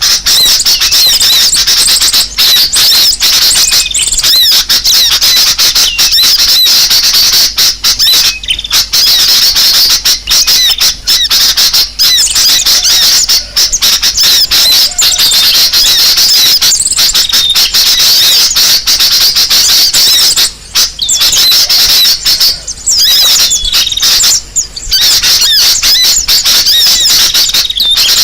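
Bird-lure recording of many small birds chattering noisily together: a dense, unbroken mass of high, rapid twittering calls, with a few very short breaks. It is a lure sound made to draw birds in.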